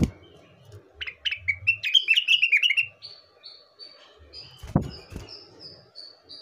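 Rengganis (cucak wilis) song: a fast run of chirps, each dropping in pitch, then a string of short, even, high whistled notes at about three a second. Two dull thumps, one at the start and one near the end, cut through the song.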